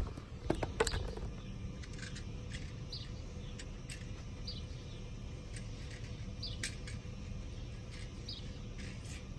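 Birds chirping in short, separate calls over a steady low rumble, with a couple of sharp knocks about half a second in.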